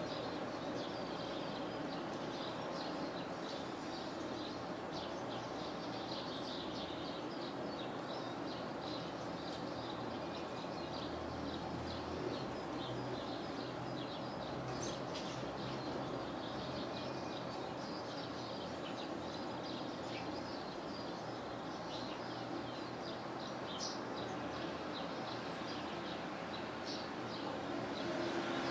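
Small songbirds chirping and twittering in many short, overlapping calls, busiest in the first half, over a steady low background noise.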